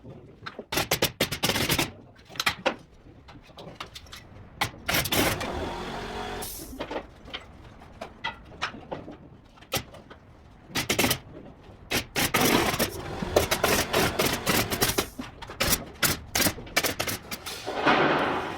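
Carpentry work sounds: repeated sharp knocks and clatter of tools and timber, with a steadier noise lasting about two seconds a few seconds in.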